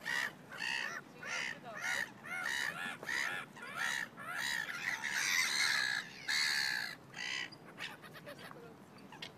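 Birds calling in a rapid run of short calls, about two a second, stopping about seven and a half seconds in.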